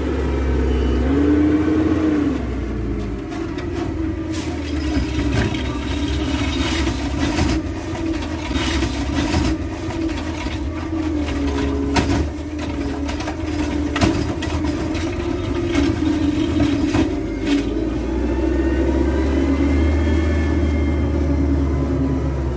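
Automated garbage truck's engine running steadily, with a pitched hum that swells and falls early on and a few sharp knocks partway through.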